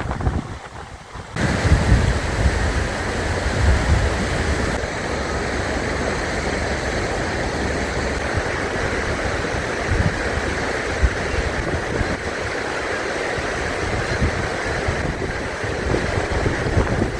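River rapids rushing in a steady wash of water noise, with wind buffeting the microphone underneath. The sound is quieter for about the first second, then louder and steady.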